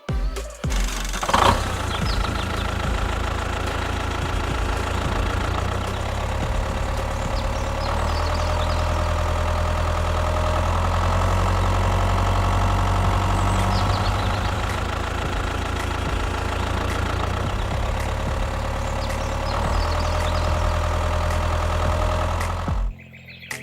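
Small engine of a DIY mini tractor starting up with a short burst, then running steadily at a constant speed, and cutting off abruptly near the end.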